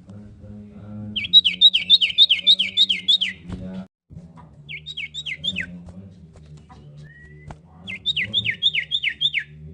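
Common iora singing: three rapid runs of sharp notes, about four a second, each note dropping steeply in pitch. A steady low hum runs underneath.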